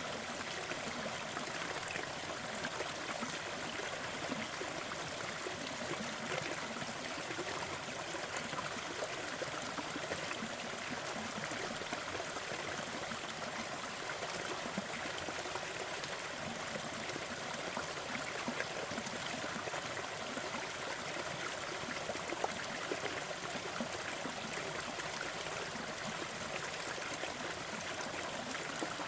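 Steady rushing and splashing of a waterfall, with small trickles and splashes flickering through it.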